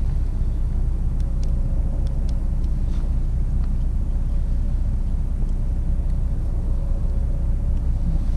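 Steady low rumble of wind buffeting the microphone outdoors, with a few faint crackling ticks and a faint steady hum coming in about two seconds in.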